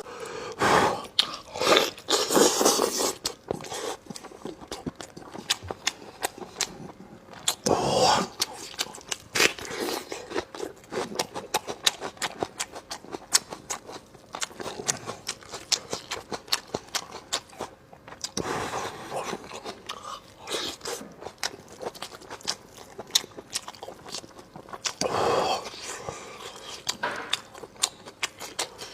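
Close-miked eating of braised pork: steady chewing and biting with a dense run of quick wet mouth clicks and smacks, and a few louder bites or slurps along the way.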